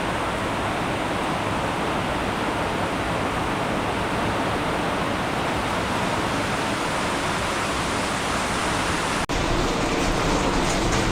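Heavy rain falling, a steady, even rushing hiss with no distinct drops or other sounds, briefly cut about nine seconds in.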